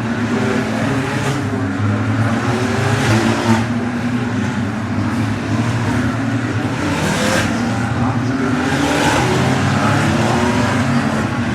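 Several Ferrari race cars on track at full throttle, their engine notes overlapping and rising in pitch as they accelerate past.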